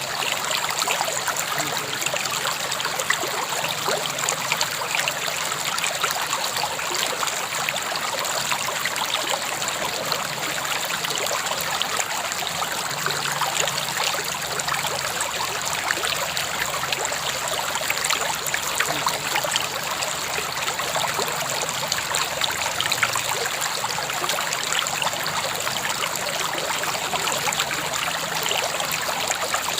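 A river flowing steadily over rocks, with a constant rushing and splashing and no change in level.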